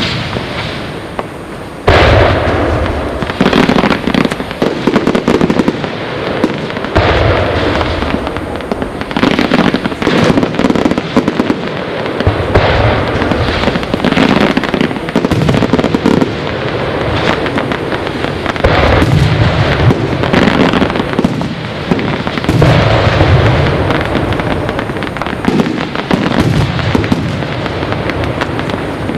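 Aerial fireworks display: a single bang, then about two seconds in a much louder, dense barrage of shell bursts and crackling booms that goes on without a break.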